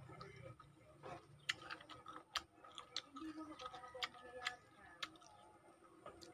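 Faint, irregular sharp mouth clicks and smacks from someone chewing lemon slices with closed lips.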